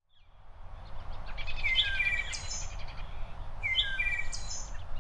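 A songbird singing the same short phrase twice, about two seconds apart, over a steady low rumble of outdoor background noise; the sound fades in at the start.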